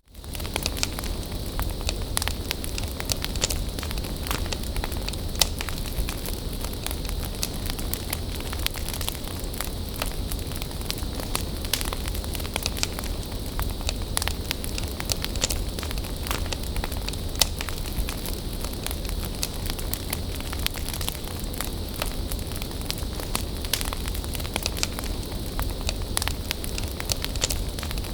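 Wood bonfire burning steadily, with constant crackling and frequent sharp pops over a soft hiss and low rumble of the flames.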